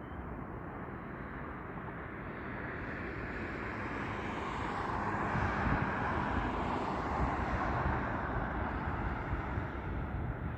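Jet airliner's engines passing: a broad rushing noise over a low rumble that builds over several seconds, peaks about halfway through, then eases slightly.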